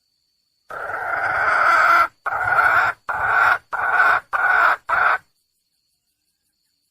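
Female red junglefowl (wild hen) calling for a male: one long call that grows louder, then five shorter calls in quick succession.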